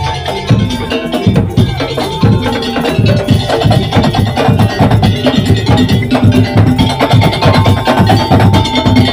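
Daul percussion ensemble playing loud, fast music: rapid drum strokes with wood-block-like knocks. A held melody note joins in for the last couple of seconds.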